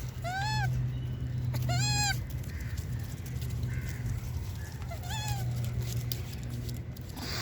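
Monkeys giving short, high, pitched calls that rise and fall in pitch, three times, over a steady low hum.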